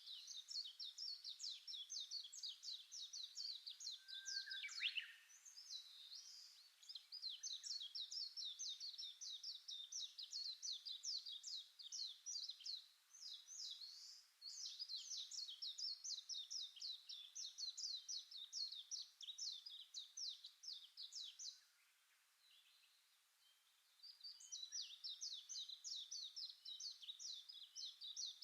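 A bird singing long, fast trilling phrases of repeated high notes, each phrase lasting several seconds with short pauses between them. A single lower, falling note comes about four seconds in.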